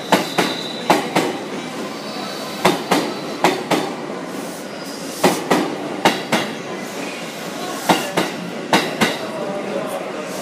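JR East 255 series electric train passing through a station at speed without stopping. Its wheels clack over rail joints in paired beats, one pair about every second as each bogie crosses, over a steady rolling rumble. A thin high wheel squeal comes in now and then in the first few seconds.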